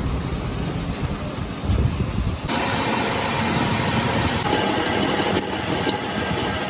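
An engine or machine motor running steadily with a low rumble, the sound jumping abruptly a few times where the footage is cut.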